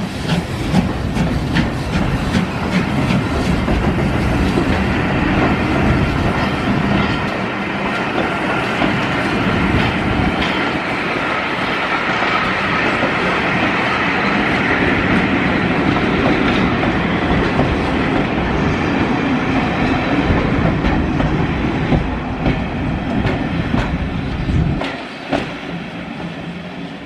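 Passenger coaches of a steam-hauled train rolling past, their wheels clicking and rumbling over the rails. The sound drops away near the end as the last coach passes and recedes.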